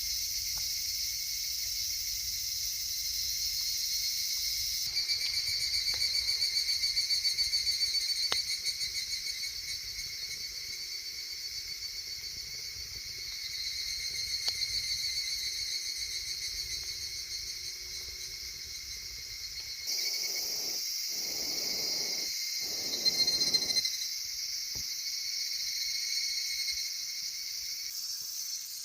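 Chorus of insects trilling steadily in several high pitches, with the mix of voices changing abruptly twice. Near the middle of the second half come three short bursts of duller noise.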